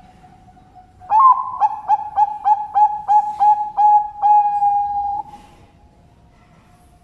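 Zebra dove (perkutut bangkok) singing: about a second in, a quick run of about nine short cooing notes, then one long held coo that stops after about a second.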